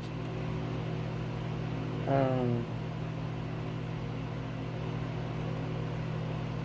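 Steady electrical hum made of several even tones, with a short falling vocal sound, like a brief hum or drawn-out syllable, about two seconds in.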